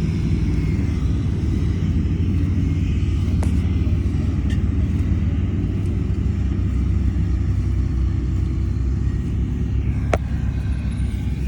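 Heavy diesel earthmoving machinery running steadily with a deep, even rumble, with a sharp click about three seconds in and another near the end.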